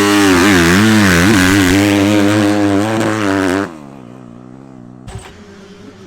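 250 supercross motocross bike engine on the track, its pitch rising and falling with the throttle as it is ridden. Loud, then it drops off abruptly a little past halfway.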